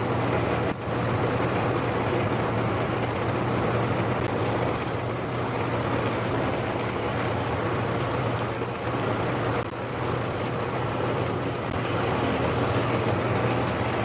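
Small metal lathe running steadily while a large drill bit cuts full diameter into the spinning workpiece, with a low motor hum and thin high squeals from the cut coming and going.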